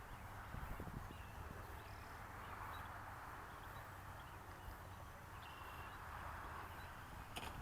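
Faint outdoor ambience: a soft steady hiss with a few faint, short high chirps. A louder noise starts right at the very end.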